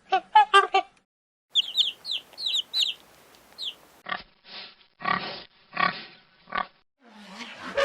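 Short animal calls in quick succession: a few repeated harsh calls at the start, a small bird's quick high chirps, then five separate pig grunts.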